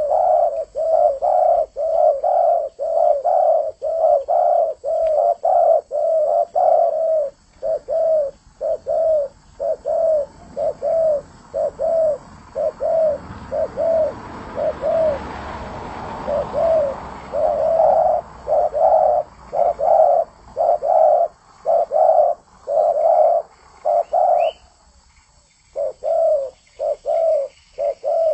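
Spotted dove cooing over and over in short, evenly spaced notes, about two a second, calling steadily. Partway through, a rushing noise swells up and fades under the calls, and the cooing breaks off briefly near the end before resuming.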